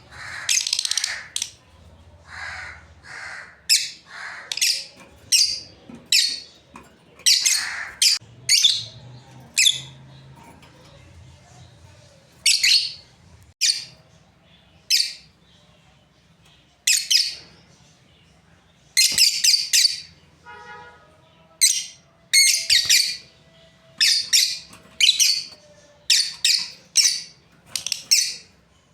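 Lovebirds calling: short, sharp, high-pitched chirps, about one a second in irregular runs.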